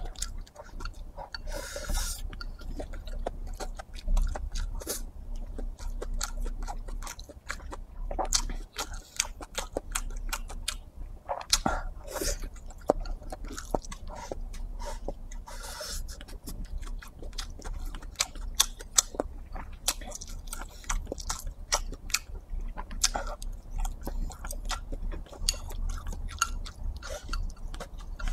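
A person chewing mouthfuls of stir-fried dried tofu, pork and rice, with many small chewing clicks and a few louder bursts spread through.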